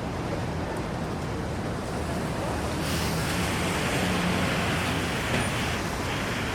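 Traffic on a rain-wet city avenue: engines running with a low hum under a steady hiss of rain and tyres on wet road. The hiss swells about three seconds in and drops back near the end.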